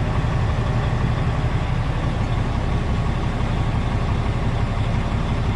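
Heavy diesel engine of a semi tractor idling steadily, heard from inside the cab, just after a start-up while the gauges come up.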